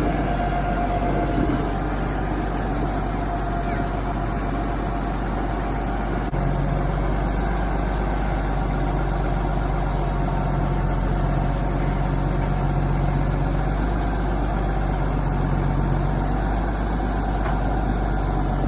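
Honda Pilot SUV being driven: steady engine and road noise with a constant low hum.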